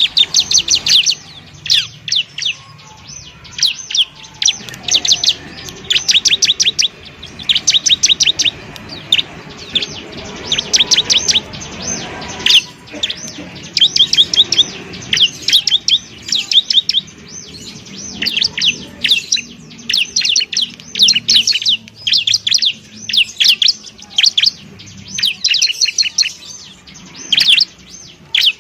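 Bar-winged prinia (ciblek) singing: bursts of rapid, high, ticking notes about a second long, repeated again and again with short pauses between them.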